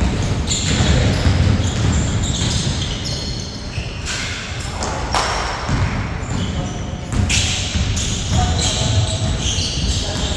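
Basketball bouncing on a hardwood court in a large echoing gym during play, with sneakers squeaking and players' voices.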